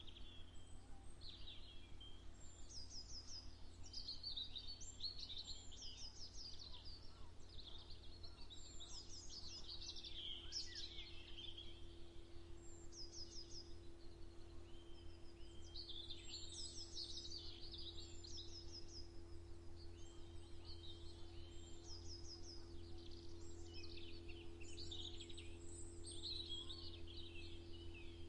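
Several songbirds singing at once: overlapping high chirping songs and repeated quick trills, over a steady low hum.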